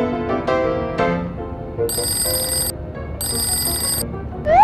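A mobile phone ringtone rings in two short bursts of about a second each, over light cartoon background music.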